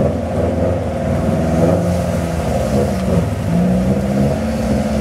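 Subaru Impreza WRX rally car's turbocharged flat-four engine running, its revs stepping up and down a few times.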